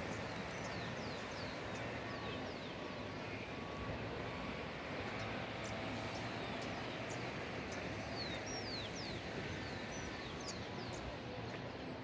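Small birds giving many short, high, falling chirps, scattered and thickest a little past the middle, over a steady background hiss.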